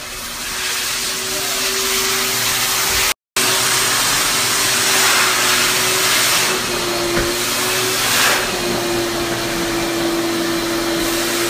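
Electric blower motor running steadily: a hum with a loud hiss of rushing air, cut off briefly about three seconds in.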